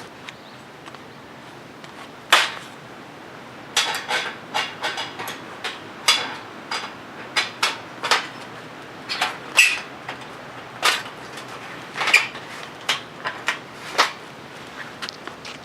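A series of sharp knocks and clacks at irregular intervals, some close together and some a second or more apart, like hard camping gear being handled or struck.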